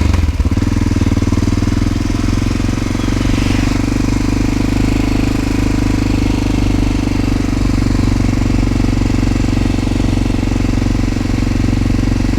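The single-cylinder engine of a 1988 Honda NX650 Dominator running steadily, its firing pulses coming fast and even.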